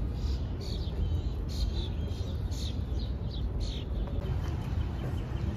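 Small birds chirping, short high notes repeated irregularly, over a steady low rumble.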